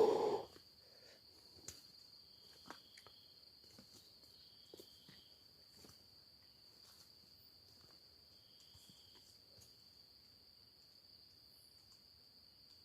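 Night insects: a steady high cricket trill runs throughout, with a second, lower insect call coming and going in short phrases, and a few faint ticks. A brief loud sound cuts in at the very start.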